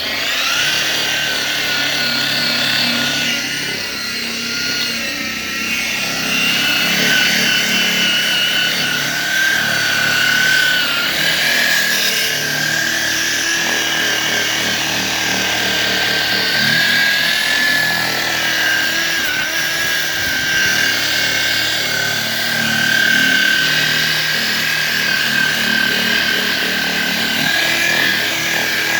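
Electric car polisher running continuously as it buffs compound into car paint to take out scratches, a steady high whine over a lower hum that wavers slightly in pitch as it works.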